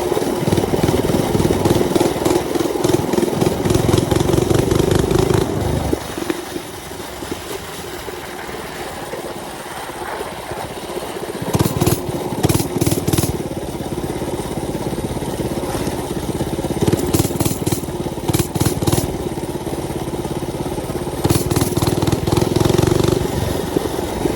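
Mini bike's small engine running under throttle while riding: loud for the first several seconds, then eased off, then opened up again in short spells three times.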